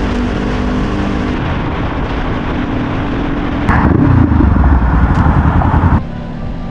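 Honda CBR500R motorcycle on the move: the engine running under a steady rush of wind noise. It gets louder and heavier for a couple of seconds past the middle, then drops off sharply about six seconds in.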